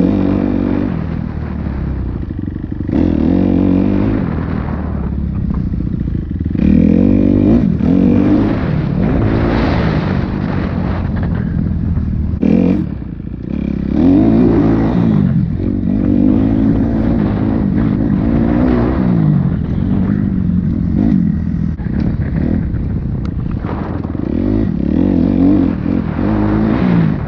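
Dirt bike engine ridden hard around a track, its pitch rising with each burst of throttle and falling off between, over and over, with a short break in the engine note just before halfway.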